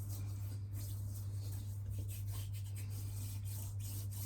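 Faint rubbing and light squishing of shaving cream being worked by hand, over a steady low hum.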